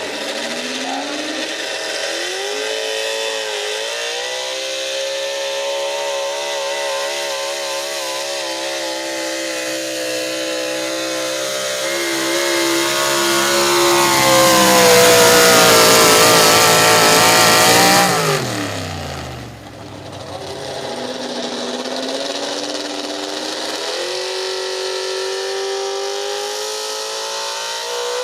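Super stock pulling truck's engine at high revs under load, its pitch climbing and getting louder until about 18 seconds in, when it lets off and the pitch falls away sharply. It then revs back up and holds a steady high note.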